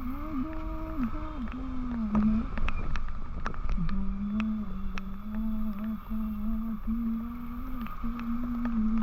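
A person humming a slow tune over the steady wind and road rumble of a motorcycle ride, with scattered sharp ticks.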